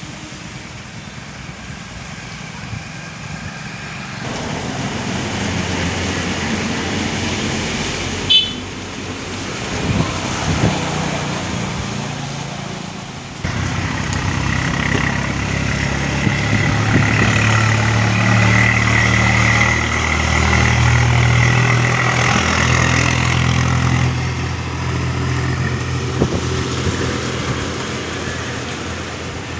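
Motor vehicle running, with a steady engine hum that shifts pitch in steps and continuous road noise. There is a sharp click about eight seconds in.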